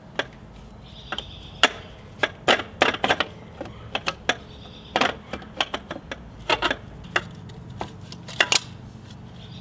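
Irregular metallic clinks and knocks of tools and hardware while the exhaust pipe is fitted to a dirt bike, about one to three sharp strikes a second.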